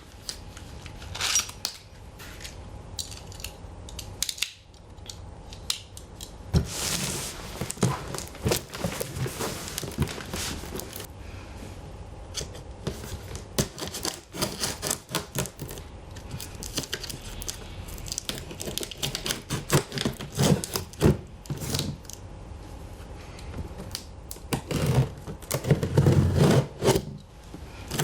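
Packaging being opened and handled: irregular scraping, rubbing and rustling with scattered sharp clicks and knocks, and a run of heavier low thuds near the end.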